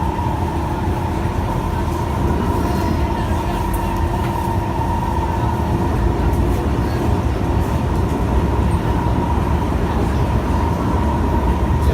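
Kawasaki Heavy Industries C151 MRT train heard from inside a car while running along the line: a steady rumble of wheels on rail with a steady, even hum over it.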